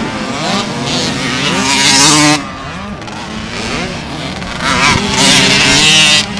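Motocross motorcycle engines revving, with pitch rising and falling through the gears. There are two loud full-throttle surges, each cut off suddenly.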